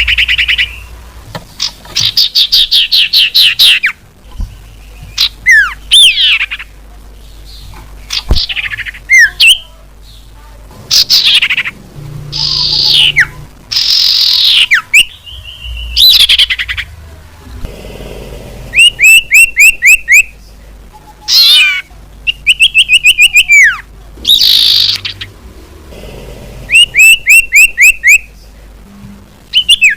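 Iora (sirtu/cipoh) calls of the kind played as a bird-trapping lure, loud and in bursts: falling whistled slurs and rapid runs of five or six short notes, repeated with short pauses between.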